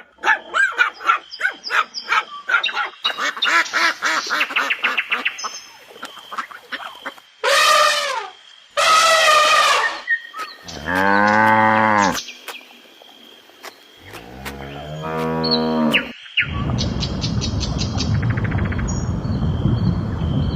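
A run of different animal calls, one after another: quick repeated chattering calls at first, then two short high falling calls, then two low drawn-out calls. About sixteen seconds in, a steady low rough rumbling takes over.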